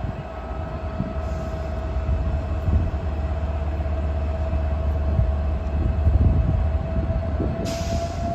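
A train moving at a station platform: a deep rumble with a steady whine that creeps slightly higher in pitch near the end.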